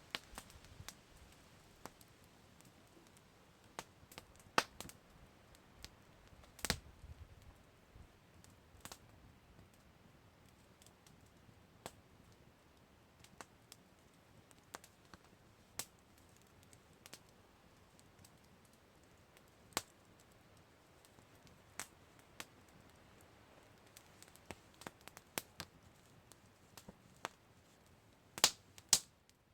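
Campfire crackling: scattered sharp pops and snaps at irregular intervals over a faint hiss, with a quick cluster of louder pops near the end.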